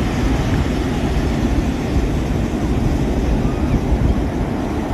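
Heavy ocean surf breaking and washing up the shore: a loud, steady, rumbling noise without pauses.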